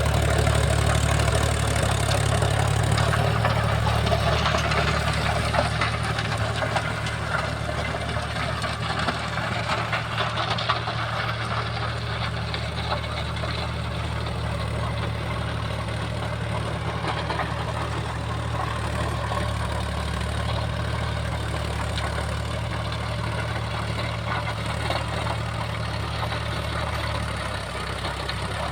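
Mahindra tractor's diesel engine running steadily while it drives a rotavator, a little louder in the first few seconds.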